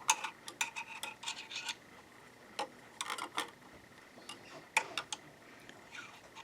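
Light metallic clicks and taps as a pointer and hands move among the internal parts of an opened sewing machine. Some clicks ring briefly. They come in small clusters at the start, around the middle and again near the end.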